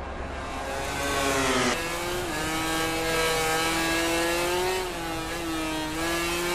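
MotoGP racing motorcycle engine at high revs. It climbs in pitch, drops sharply at an upshift about two seconds in, then holds a nearly steady high note with small dips, and falls again near the end.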